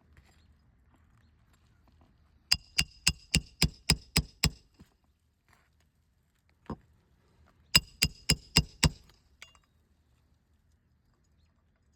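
Roofing hammer striking a steel roof snake slid under a shingle, driving a roofing nail back in. Two runs of quick, ringing metal-on-metal blows, about four a second: eight, then after a pause five more, with a single knock between them.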